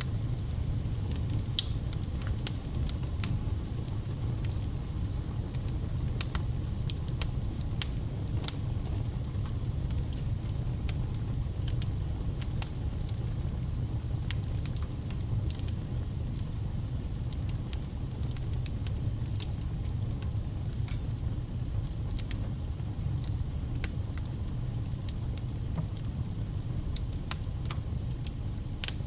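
Campfire of burning firewood crackling, with irregular sharp pops and snaps over a steady low rumble of flame.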